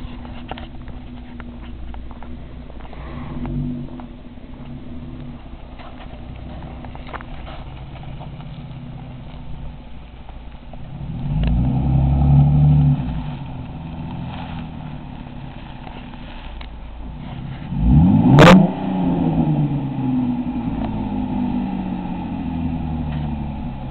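2006 Dodge Charger's 3.5-litre V6 exhaust as the car drives by and pulls in. About halfway through the engine swells loudly under acceleration. A few seconds later a quick rev climbs sharply and falls back, leaving the engine running steadily and low.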